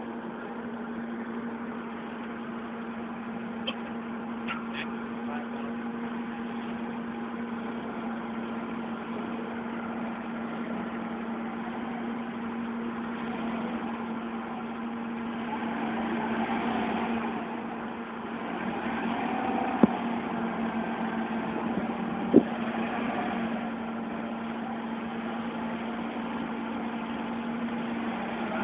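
A forklift engine runs steadily, louder for a few seconds past the middle, with two sharp knocks about two and a half seconds apart in the second half.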